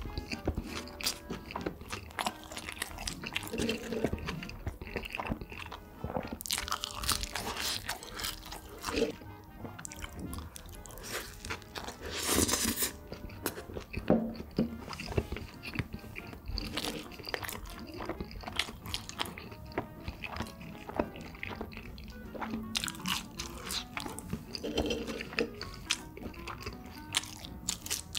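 Chewing and crunching as a cheeseburger and french fries are eaten, with background music.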